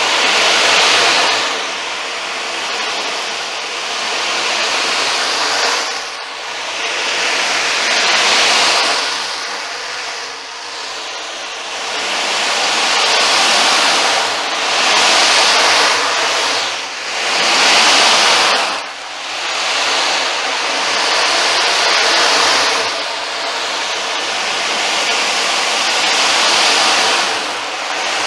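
Ocean drum being tilted back and forth, the beads inside rolling across the drumhead in a wave-like wash. The wash swells and fades every one to three seconds.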